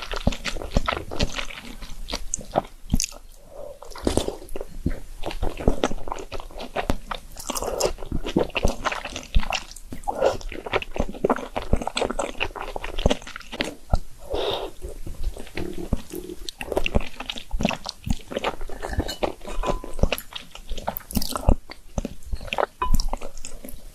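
A person chewing and biting food, a steady stream of short wet clicks and crunches.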